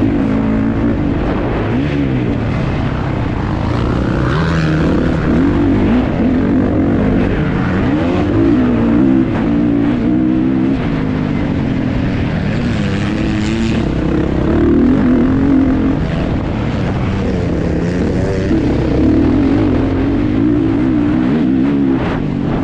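Kawasaki KX450's single-cylinder four-stroke engine, heard from on board, running hard under throttle. Its pitch rises and drops again and again as the rider opens and shuts the throttle and shifts through the gears.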